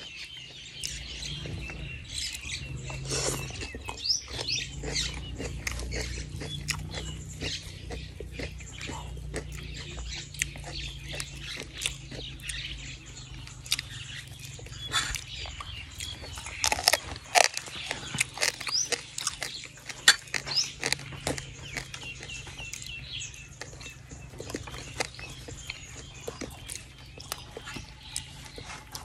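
Close-miked eating sounds: irregular wet chewing clicks and lip smacks as frog curry is eaten by hand. Small birds chirp now and then in the background over a steady low hum.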